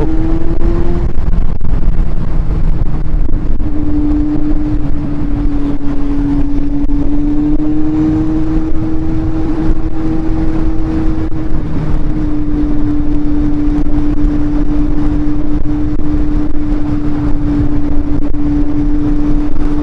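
Kawasaki Z800 inline-four motorcycle engine running at a steady cruise, its note drifting only slightly in pitch, with wind rushing over the helmet microphone.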